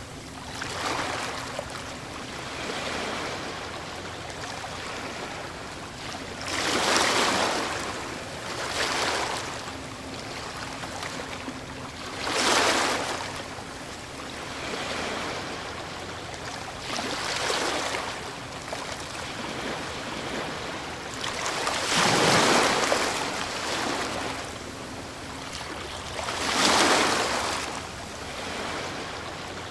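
Ocean waves breaking on a shore over a steady wash of surf, each wave rising to a rushing surge and fading again. The strongest surges come about seven, twelve, twenty-two and twenty-seven seconds in.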